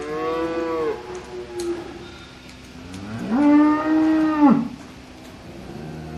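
Two cattle moos: a short call that falls away at its end within the first second, then a longer, louder call about three seconds in that rises sharply, holds steady and cuts off.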